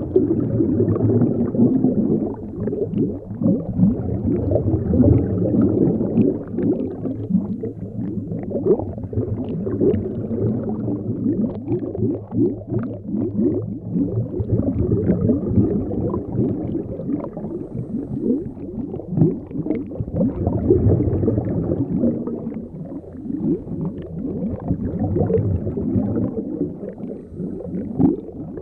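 Underwater ambience: a steady low rumble with a dense, continuous bubbling crackle.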